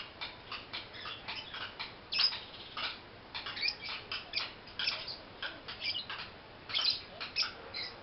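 Young pastel-blue lovebird chirping: a quick, irregular run of short, high chirps and clicks.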